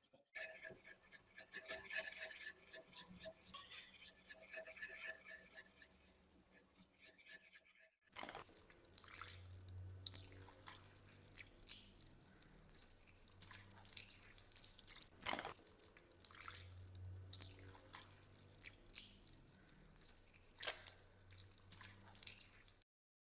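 Hand scraping and rubbing on rusty metal during rust removal, in two separate takes; the second is full of short, sharp scratches and clicks over a low hum. The sound cuts off abruptly near the end.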